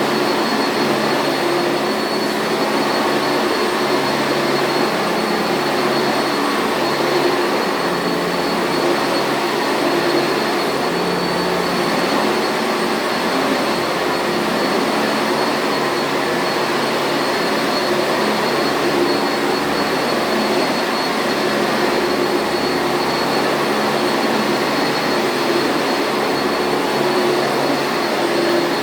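Sanitaire commercial vacuum cleaner running steadily: an even whir with a thin, constant high whine over it.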